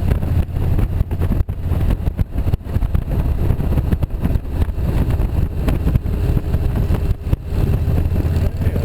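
Motorcycle engine running while riding, with wind rushing and buffeting over the microphone.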